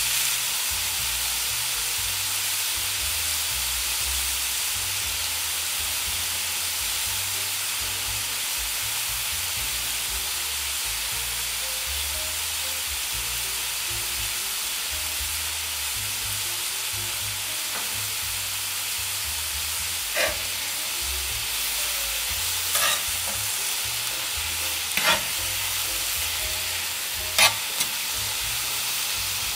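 Food frying in a pan with a steady sizzle while it is stirred, and four short sharp clinks of a utensil against the pan over the last ten seconds.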